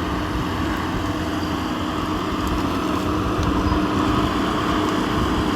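Large engine running steadily, a continuous low rumble with a steady hum.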